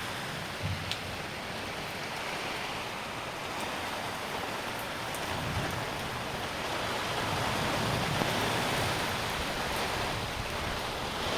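Heavy rain falling hard and steadily, an even hiss, with a few brief low rumbles.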